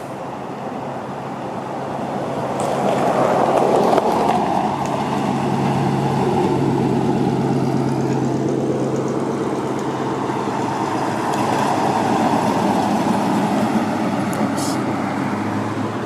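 A car engine running close by, with a low steady hum under a broader rushing noise; it grows louder over the first few seconds and stays loud.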